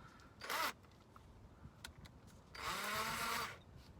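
A power tool fitted with a small wire wheel for cleaning surface rust, run briefly: a short scratch about half a second in, then a burst of about a second near the end with a steady motor tone.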